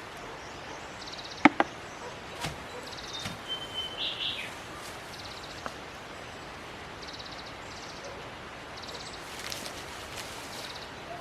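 Outdoor ambience with a bird repeating a short, high trill every second or two and giving a brief whistled note. A single sharp knock sounds about one and a half seconds in.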